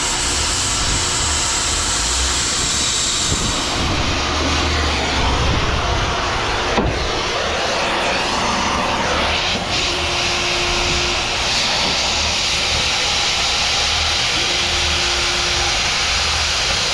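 Steady, loud rushing hiss of a metal-cutting torch cutting steel away from stainless scrap. The tone shifts about four seconds in, with a sharp click near the middle.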